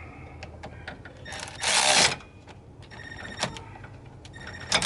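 Tools tightening the battery cable terminal on a car battery: a brief burst of a power tool about a second and a half in, then sharp metal clicks and clinks with a short ringing tone, twice.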